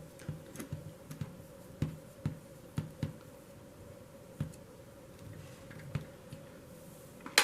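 Scattered light clicks and taps of small metal parts and a screwdriver being handled on a toy train locomotive's frame, with a louder click near the end, over a faint steady hum.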